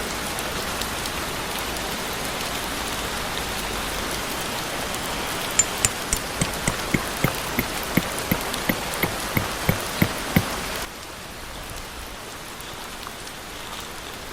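Steady rain falling, with a run of sharp drip taps, about three a second, through the middle; near the end the rain suddenly drops to a quieter hiss.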